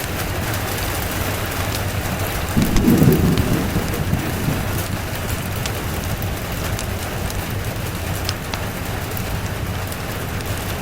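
Steady rain with scattered sharp ticks, and a roll of thunder that rumbles up about two and a half seconds in and dies away over the next two seconds.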